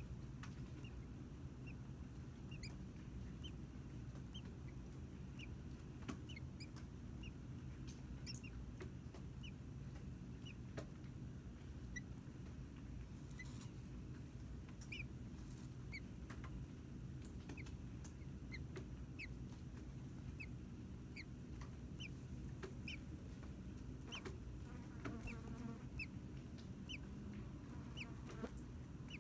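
Faint, scattered short high peeps of small birds, one or two a second, over a steady low hum and hiss. A short buzzy call comes near the end.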